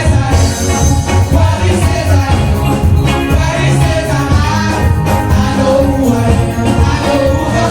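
Live gospel song: a vocal group singing over a band with heavy bass and a steady beat.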